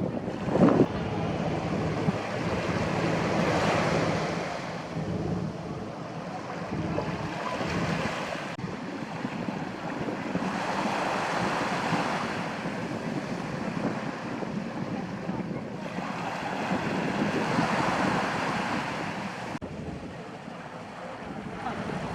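Sea waves surging and washing in, swelling and ebbing every several seconds, with wind on the microphone.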